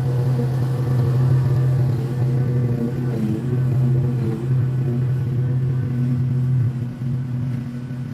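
Small gasoline engine of lawn equipment running steadily at a constant speed, with a brief dip about seven seconds in.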